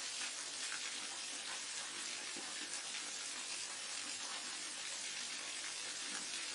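Waterfall pouring steadily, a continuous hiss of falling water.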